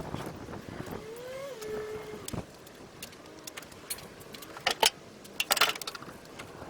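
Metal clinking and clanking from tools or metal parts being handled, loudest in two short clusters past the middle, with a brief squeak about a second in.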